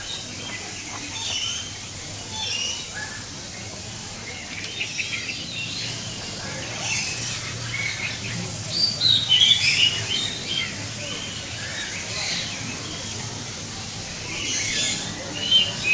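Several birds chirping and calling, short high chirps coming one after another. The calls are busiest and loudest about nine to ten seconds in and again near the end.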